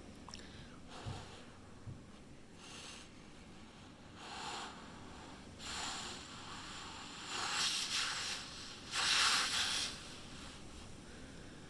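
Strong storm wind gusting in a series of rushing, hissing surges about a second long each, growing stronger, with the loudest gust about three-quarters of the way in.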